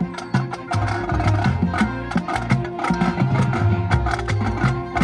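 Marching show band playing: quick, dense percussion strikes over sustained low notes and held mid-range tones.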